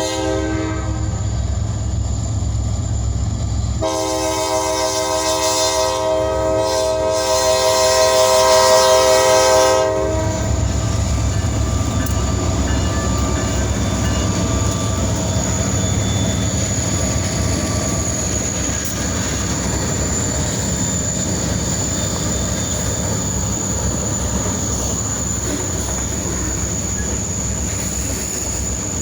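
EMD SD40-2 diesel locomotives' air horn sounding a chord that trails off about a second in, then one long blast of about six seconds. Then the steady rumble of the train rolling past, with a thin high squeal from the wheels.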